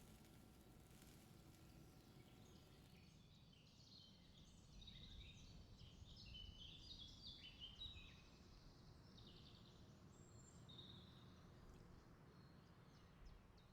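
Faint bird chirping: a run of short, high chirps from about four to eleven seconds in, over a low, steady background rumble.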